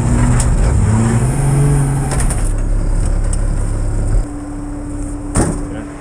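Nissan Patrol Y60 engine running, heard from inside the cab, its pitch rising and falling. About four seconds in the sound drops away sharply to a quieter steady hum, and a single sharp click follows near the end.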